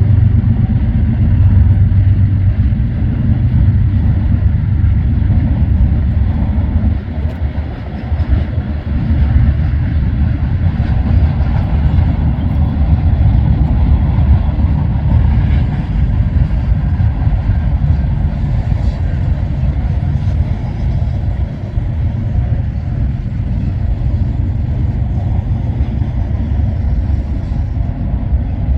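Freight train rolling past: a loud, steady low rumble of diesel locomotives and cars on the rails, briefly easing about seven seconds in.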